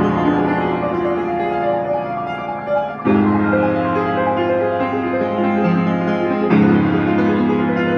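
Steinway Duo-Art reproducing piano playing a roll: full sustained chords, with new chords struck about three seconds in and again about six and a half seconds in.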